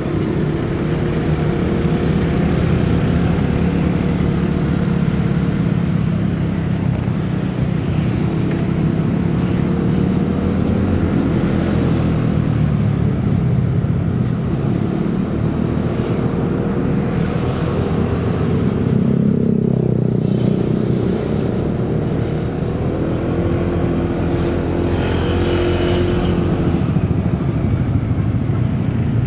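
Motorcycle engine running under way, its pitch rising and falling as the speed changes, with city traffic noise around it.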